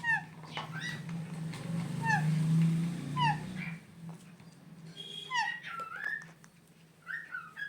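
Pet parrot giving a few short, falling, whistle-like squeaks, spaced out, over a low steady hum that fades out about halfway through.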